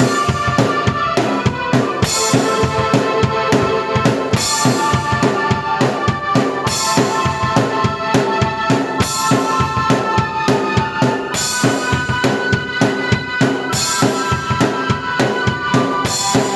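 Drum kit and keyboard playing a fast original piece together: busy kick-drum and snare strokes under sustained keyboard chords, with a cymbal crash about every two seconds.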